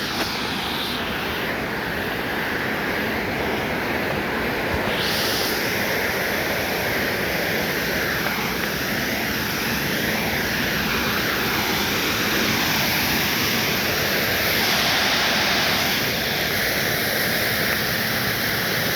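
Steady rushing of a waterfall's water close to the microphone, an even noise with no breaks.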